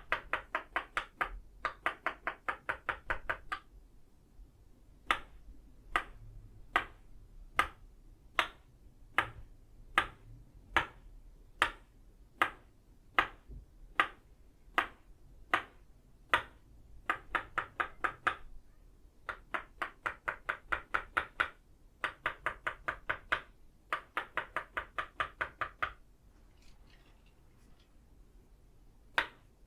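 Tok sen wooden mallet striking an itaúba wooden peg, each knock with a short woody ring. Quick rolls of rapid taps, about ten a second, alternate with a run of slower single knocks a little under a second apart. The tapping pauses for a few seconds near the end.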